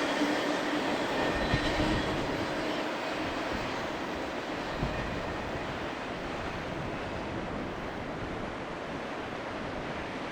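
BNSF freight train rolling past and receding, its wheel and rail noise slowly fading.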